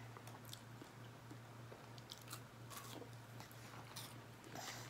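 Faint close-up chewing and biting of fried takeout food, with small scattered crunches.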